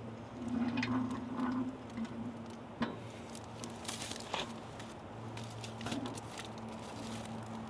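Scattered light taps and clicks of hands working with utensils and ingredients during food prep, with a low hum that comes and goes.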